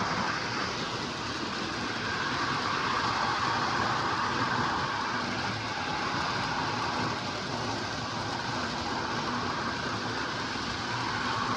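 Lionel O gauge electric toy trains running on three-rail track: a steady whir of the locomotives' motors and wheels rolling over the rails.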